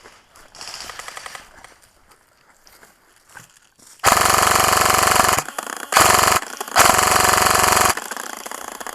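An airsoft electric G&P M249 firing fully automatic in three bursts, the first and last over a second long and a short one between, its gearbox cycling in a fast rattle. A fainter, shorter rattle comes in the first second and a half.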